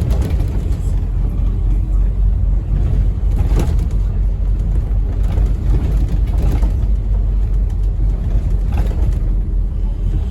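Scania N270UD OmniCity bus's five-cylinder diesel engine running, heard from inside the passenger saloon as a steady low drone, with a few brief rattles.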